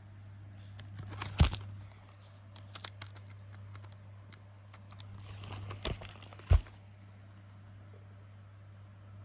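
Packaged fireworks being handled: plastic wrapping crinkling and rustling, with two sharp knocks about a second and a half in and again near six and a half seconds, over a steady low hum.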